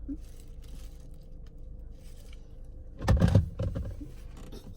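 Low steady hum of a car with a faint steady tone over it. About three seconds in comes a loud thump and rattle, then it settles back.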